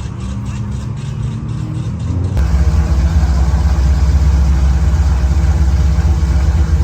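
High-horsepower street car engine running hard, its pitch slowly rising during acceleration. About two and a half seconds in, the sound jumps abruptly to a louder, steady engine at high revs, which cuts off suddenly at the end.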